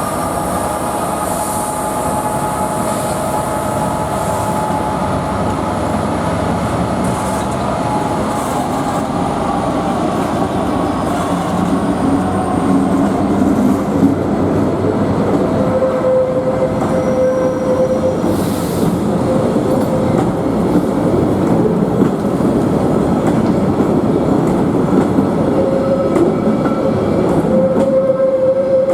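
Locomotive-hauled train rolling past on the rails, with thin squealing tones from the wheels over the steady rumble. The noise grows louder about halfway through, when a steadier squeal sets in, and it returns near the end.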